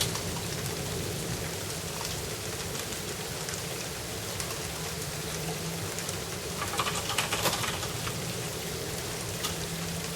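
Steady rainfall, with a patch of close, sharp drops pattering on a hard surface about seven seconds in and again near the end.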